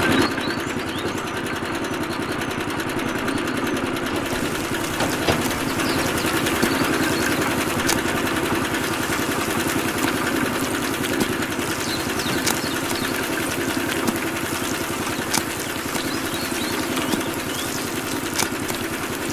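Small motor of a homemade miniature tractor running steadily with a rapid, engine-like buzz, with a few sharp clicks now and then.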